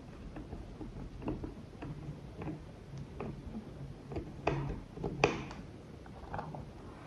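Faint, irregular small clicks and taps, about a dozen, with the two loudest a little past the middle.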